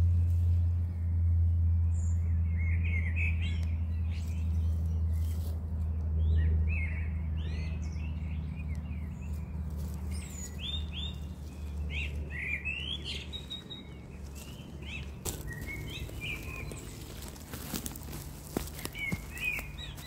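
Small birds chirping, many short repeated calls, with a low steady rumble underneath that fades out about two-thirds of the way through. Scattered clicks and rustles come near the end.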